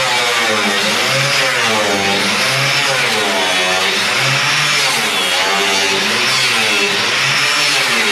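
Power cutting tool running hard as it is worked into car-body sheet metal. Its motor pitch keeps rising and falling, about once a second, as the tool is loaded and eased off.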